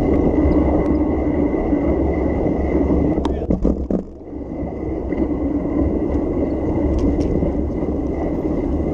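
Steady rumble of wind and road noise heard from a moving bicycle, with a short cluster of knocks about three to four seconds in, after which the noise briefly drops.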